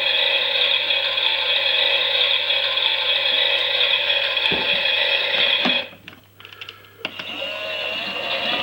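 Toy Miele washing machine's small motor and plastic gears whirring and rattling as the drum turns. About six seconds in it stops with a few clicks, and a second later it starts up again.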